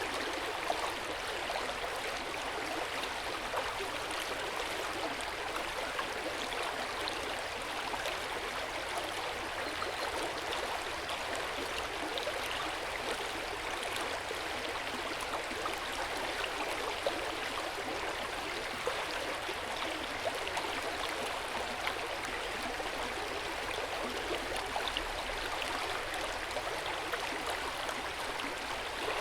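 Hot spring water flowing steadily into an outdoor hot-spring bath: an even, gentle splashing and trickling with small flickering drips.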